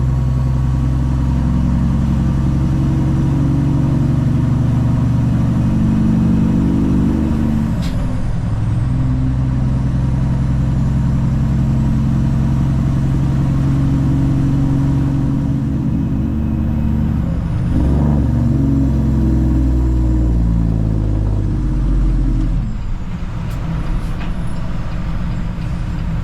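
Cummins ISX diesel engine of a Peterbilt 379 truck pulling a loaded flatbed. Its steady note changes pitch about 8 s and 18 s in, and drops lower about 22 s in.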